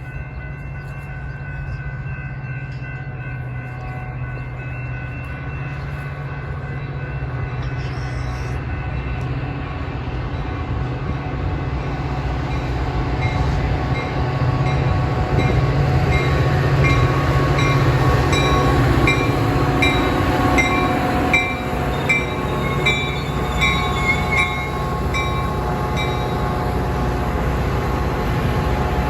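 A train running past: its low rumble grows louder over the first half and then holds steady. Through the middle comes a regular clicking, about one and a half a second, that stops a few seconds before the end.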